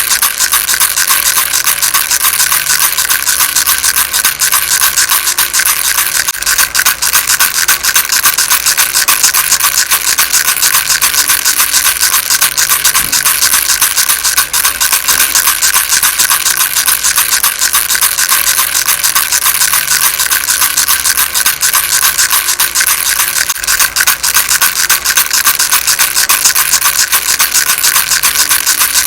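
Baby rattle shaken steadily, its small beads making a fast, dense rattle with no pauses.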